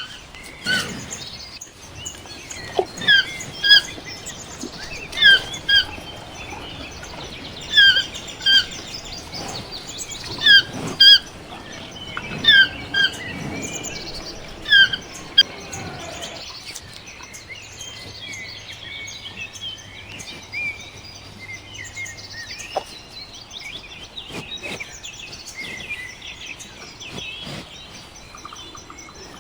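Bird calling in short, sharp call notes, often in pairs, repeated every second or two. About halfway through this gives way suddenly to fainter, busier chirping from several birds.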